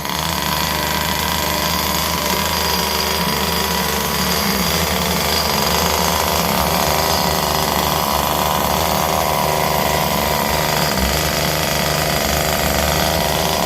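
Small two-stroke engine of a vintage Compagnucci RC car running steadily at high revs, a loud, dense, rattly buzz.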